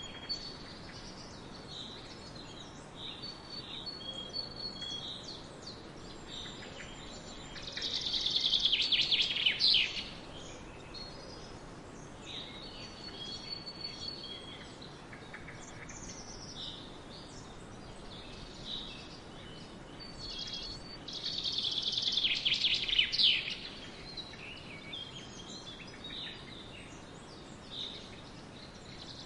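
Forest birdsong: several birds call with short high chirps throughout, over a faint steady background hiss. Twice, about eight seconds in and again about twenty-one seconds in, a bird sings a loud, rapid trilled phrase lasting about two seconds.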